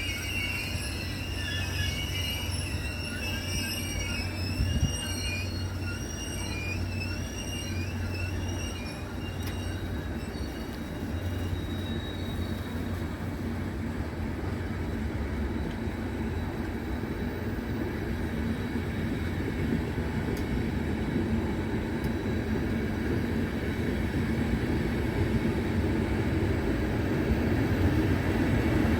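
Train at a station: a high, wavering metallic squeal of wheels on rail over a low hum fades out about ten seconds in, then the rumble of a train grows steadily louder toward the end as it approaches.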